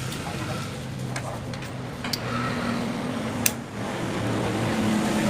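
A steady low mechanical hum with three sharp clicks spaced about a second apart.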